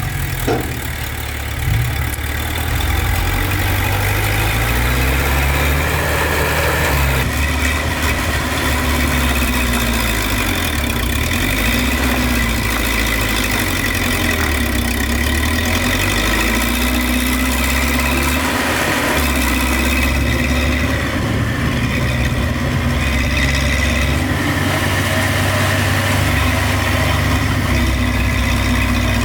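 Heavy earthmoving machinery engines running at a land-fill site, the pitch rising and falling again and again as they work under changing load. A couple of sharp knocks right at the start.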